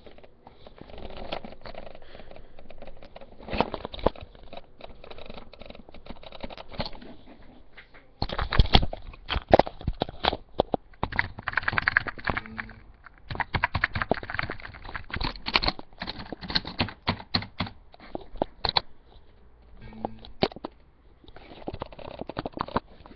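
Irregular clicking throughout, in quick runs and dense clusters, with some sharper, louder clicks among them.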